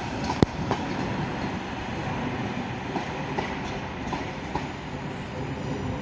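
Electric multiple-unit train noise: a steady rumble with scattered light clicks and one sharp click about half a second in.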